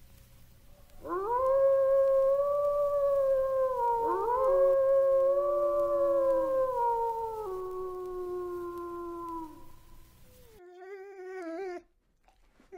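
Grey wolves howling. Long held howls, each rising at the start and sliding down at the end, begin about a second in, and a second voice overlaps the first. After the howls fade, a short wavering whine from a dog follows near the end.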